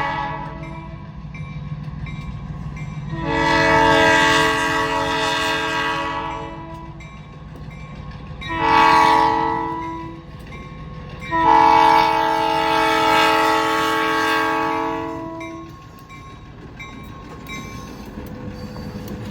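A diesel locomotive's air horn sounding a chord of several notes in a long blast, a short blast and a long blast, closing out the grade-crossing signal. Under it runs the steady rumble of the passing train, which goes on alone after the horn stops.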